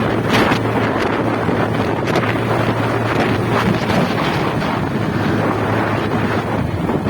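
Wind buffeting the microphone of a moving motorcycle, over a steady low engine hum.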